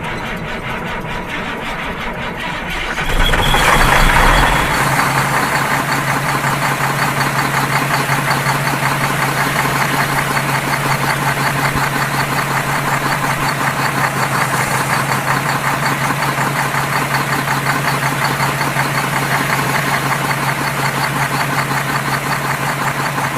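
An engine starting up about three seconds in, then running steadily at idle with a rapid, even knocking pulse.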